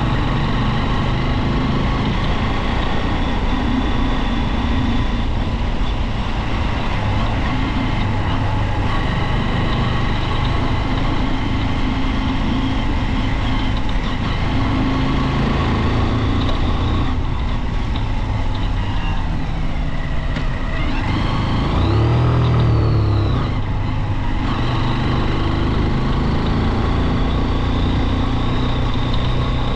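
Junak motorcycle engine running steadily while riding, heard on board with a low rumble. About two-thirds of the way through the sound swells briefly, with a rise and fall in pitch, then settles back to the steady note.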